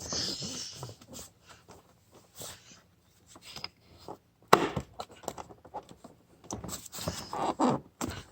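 Handling noise: irregular clicks, scrapes and knocks, with one sharp knock about four and a half seconds in. There is no steady vacuum motor running.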